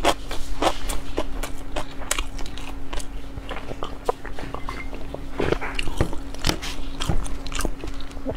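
Close-miked mouth sounds of a person eating sushi: wet chewing clicks and smacks, then a run of swallowing gulps about every half second as water is drunk from a glass in the middle.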